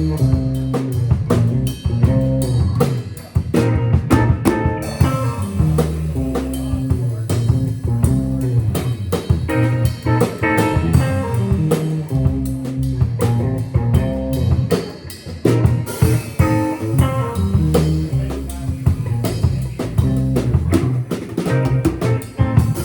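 A live band playing a funk groove: drum kit keeping a steady beat with electric guitar and bass guitar.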